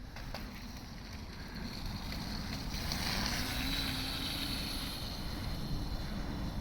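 Electric motor whine over wind noise on the microphone, growing louder about three seconds in and then holding steady.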